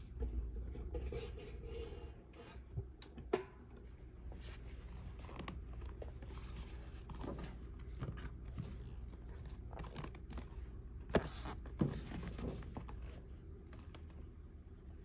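Handling noises of a box and packaging being opened: scattered light clicks, taps and scrapes, a few sharper knocks, over a steady low hum.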